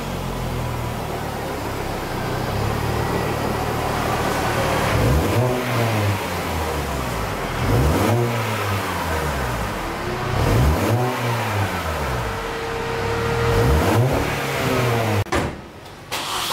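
BMW MINI Cooper R50's 1.6-litre four-cylinder engine idling through its stock exhaust, then revved with several quick throttle blips that each rise and fall. Near the end there is a short break, then the same engine idling through a REMUS sport exhaust.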